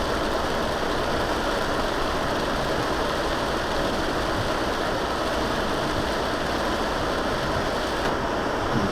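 Steady driving noise of a vehicle on a wet road in heavy rain: engine and road noise at an even level.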